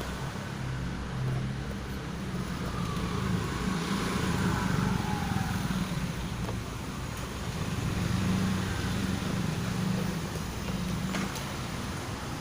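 Motor vehicle engine running steadily, swelling in loudness a few times, with a faint falling whine around the middle.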